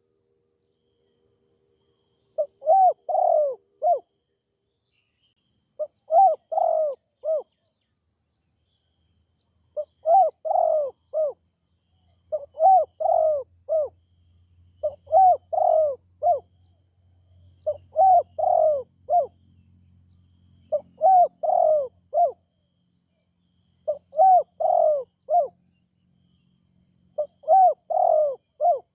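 Spotted dove cooing: a multi-note phrase repeated nine times at a steady pace, about once every three seconds. A faint low hum runs under the calls in the middle.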